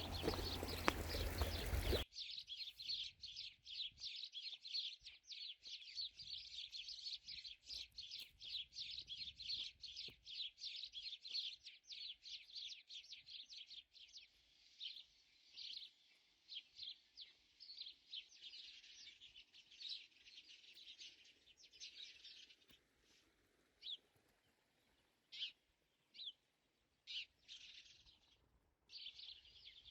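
Small songbirds chirping and twittering rapidly, a dense chorus at first that thins to scattered single calls in the second half. A louder noisy sound fills the first two seconds and cuts off abruptly.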